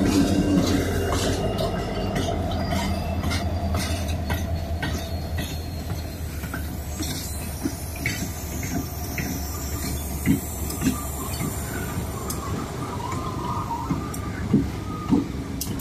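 Freight train of diesel-electric locomotives and grain cars rolling past: the engines' low drone is loudest at first and eases off, while the wheels click over the rail joints with a few sharp knocks.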